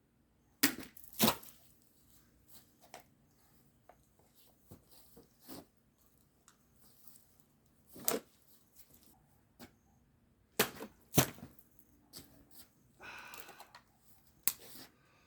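Knife blade slashing through bottles: a series of sharp cracks, a pair about a second in, one in the middle, another pair later on, and a short crackling rustle near the end.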